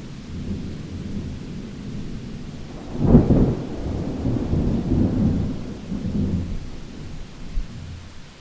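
Thunder rumbling low, with a loud clap about three seconds in that rolls on in waves and fades away, over steady rain.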